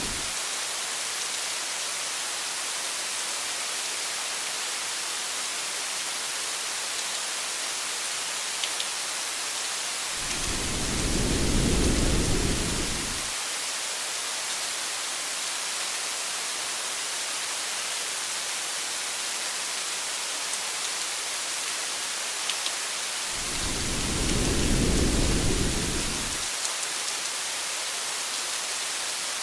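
Steady hiss of heavy rain, with two low rumbles of thunder, each about three seconds long, about ten and twenty-three seconds in.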